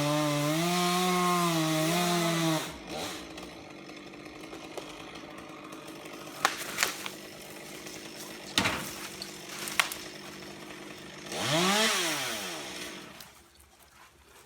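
Two-stroke chainsaw running at full throttle, its pitch dipping and recovering as it cuts redwood, then stopping about two and a half seconds in. A few sharp knocks follow, then a brief rising-and-falling whine near the end.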